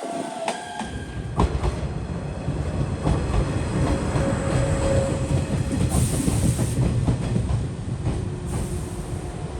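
Train running on rails: a steady low rumble with scattered short knocks from the wheels.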